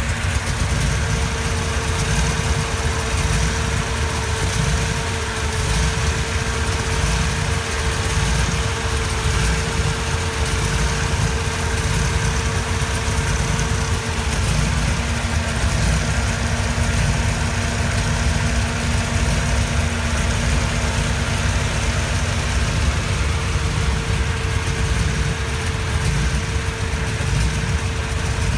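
1966 Shelby Cobra's V8 engine idling steadily, a low, even rumble throughout.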